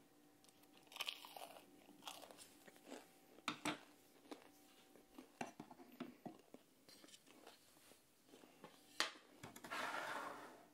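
A person chewing a mouthful of food close to the microphone: soft wet clicks and scattered crunches, with a sharper crackle about three and a half seconds in and another near the end. A short hiss of noise follows just before the end.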